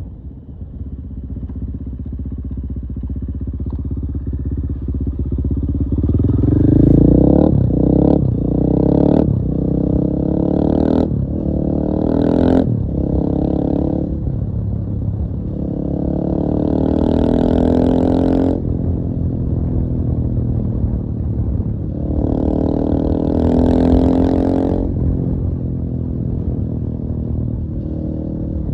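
KTM 450 EXC-F single-cylinder four-stroke enduro motorcycle engine running. It revs up about six seconds in, gives a quick series of short rev bursts, then two longer stretches of hard revving later on.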